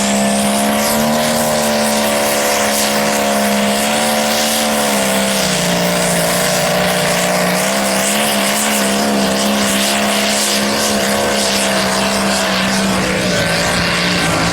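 Super stock pulling tractor's engine running at high revs under load as it pulls the sled: a loud, steady drone whose pitch holds and then wavers slightly from about five seconds in.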